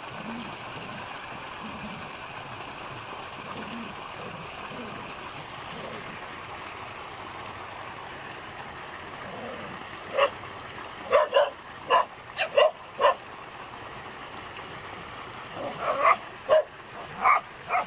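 Dogs barking in two short volleys of sharp barks, one about ten seconds in and another near the end, over a steady background hiss; the dogs are barking at a crocodile.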